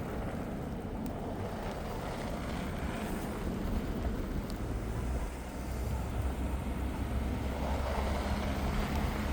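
Road traffic at a street corner: a steady low rumble of vehicles, with one vehicle's engine hum growing stronger in the last couple of seconds.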